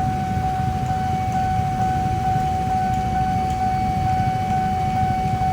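Railway level-crossing warning alarm from Kyosan crossing equipment sounding while the crossing is active: a steady electronic tone that pulses about twice a second. A low rumble of a passing train and traffic runs underneath.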